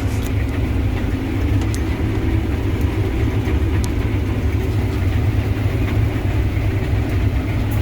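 Combine harvester running steadily while cutting wheat, a loud even drone with no change in pitch.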